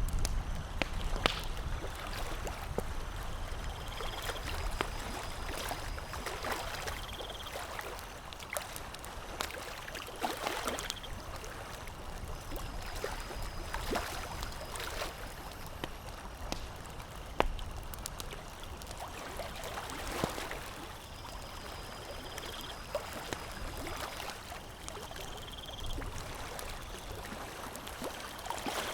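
Wood campfire crackling, with scattered sharp pops over a steady wash of moving water.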